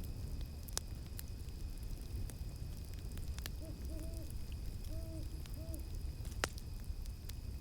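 An owl gives a few short hoots in two groups around the middle, over a crackling campfire with sharp snaps, the loudest about six and a half seconds in. Cicadas or other insects keep up a steady high drone behind it.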